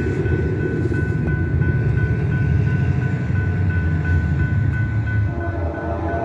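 Grade-crossing warning bell ringing in steady quick strokes over the deep rumble of an approaching freight train's diesel locomotives. About five seconds in, a multi-note locomotive air horn starts to sound.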